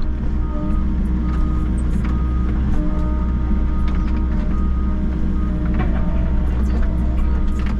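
Volvo EC60E mini excavator's diesel engine running steadily under work, with short whining tones that come and go and scattered clicks and knocks.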